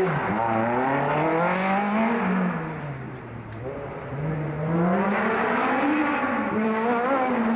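1988 Toyota MR2 AW11's four-cylinder engine revving hard and backing off again and again through an autocross course, its pitch climbing and dropping with each acceleration and lift. The engine fades a little about three seconds in, then grows louder again.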